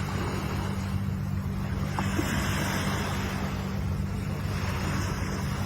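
Ocean waves washing against the shore: a steady, swelling surf noise, with a steady low hum underneath.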